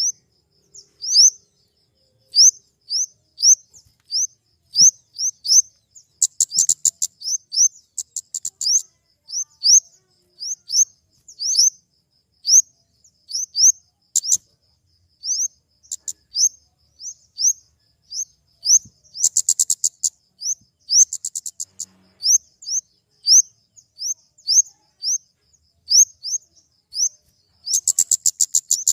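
Flowerpecker (kemade) calling: a steady string of sharp, high chirps about one or two a second, broken several times by quick runs of rapid ticking notes.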